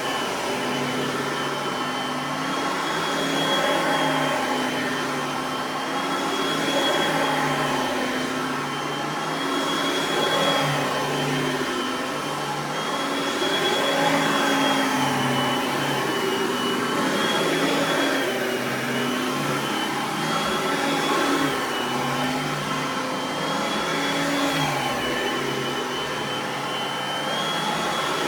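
Oreck XL Platinum upright vacuum's 3.5-amp dual-speed motor running steadily on high speed, a continuous whine whose pitch and loudness rise and fall slightly every few seconds.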